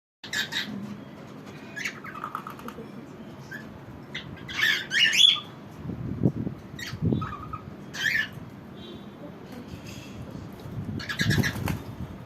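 Birds calling in irregular short squawks and chirps, several in quick succession, with a few low thuds about halfway through and near the end.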